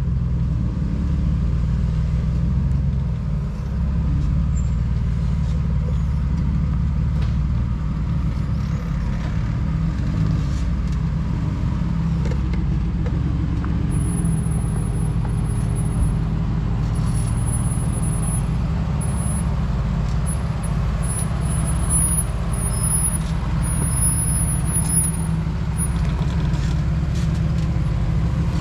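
Jeep engine running with a steady low rumble while driving off-road. Faint, intermittent high-pitched whistling tones come and go in the second half.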